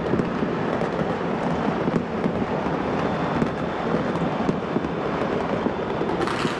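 Fireworks and firecrackers going off all over a city at once, heard from high above, their many overlapping bangs merging into one continuous crackle and rumble.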